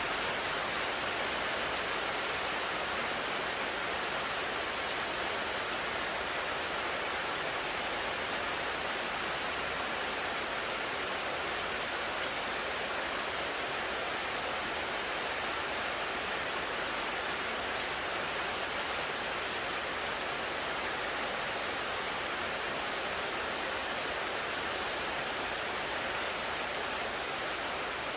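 Steady rain falling, an even hiss with no separate drops or breaks standing out.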